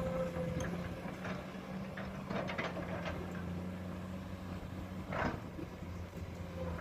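Komatsu PC200 hydraulic excavator's diesel engine running steadily, with a cluster of sharp clanks and scrapes a little after two seconds in and another clank about five seconds in.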